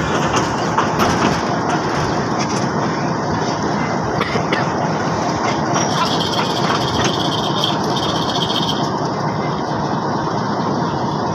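Passenger train running slowly on the rails, heard from the open doorway of a coach: a steady rumble and rattle with scattered knocks of the wheels. A high, thin squeal sounds for about three seconds from about six seconds in.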